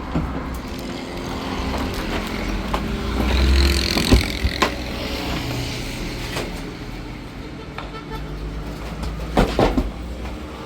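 A vehicle engine running steadily, with a swell of noise about three seconds in. Sharp knocks come about four seconds in and again near the end.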